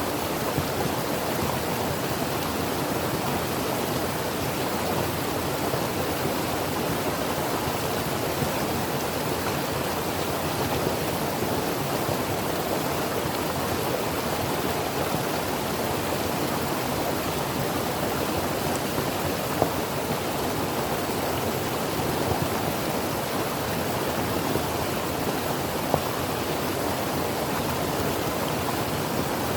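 A creek flowing, a steady rush of water with a few small splashes.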